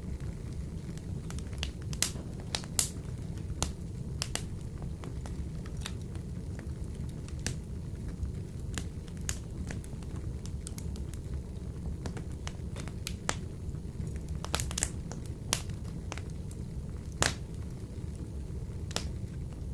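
Wood fire burning in a wood-burning stove: irregular sharp crackles and pops over a steady low rumble.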